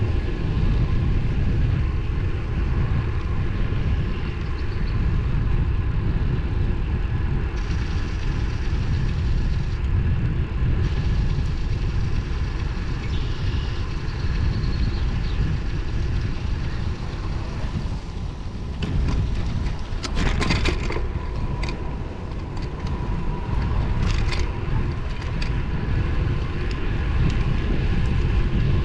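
Wind rushing over the microphone of a camera riding along on a road bike, with steady road noise underneath. A cluster of sharp clicks comes about two-thirds of the way through, and another shortly after.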